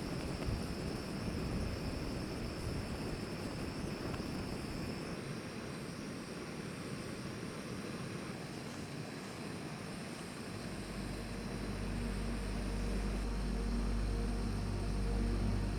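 Steady rushing of strong wind across the microphone. About ten seconds in, a low steady drone with a few held tones joins it and the sound grows slightly louder.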